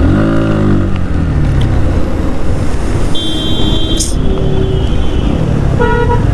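Road traffic in a jam: engines running, one dropping in pitch as it slows at the start, with vehicle horns honking, a high-pitched blast about three seconds in and a short one near the end.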